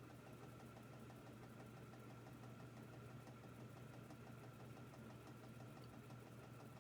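Monte Carlo Micro 24-inch ceiling fan running: a faint, steady motor hum with a low drone and a thin higher whine, unchanging throughout.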